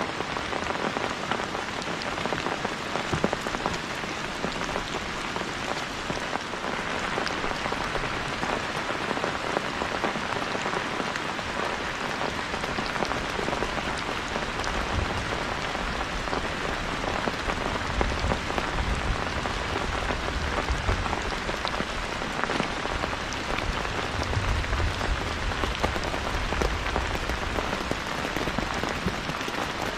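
Heavy rain falling steadily, a continuous hiss dotted with sharp individual drop hits. A low rumble swells and fades a couple of times in the second half.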